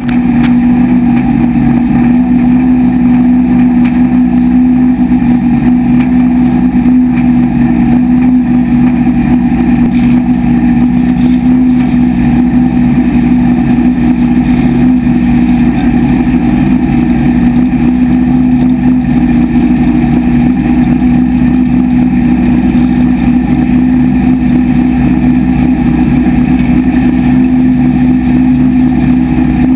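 Vintage race car's engine idling steadily, loud and close through a camera mounted in the open cockpit.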